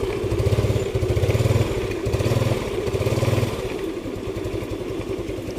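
Carburetted motorcycle engine running just after it has been started, with a pulsing low rumble that eases off about three and a half seconds in. It is running on its connected battery even though its regulator rectifier is faulty.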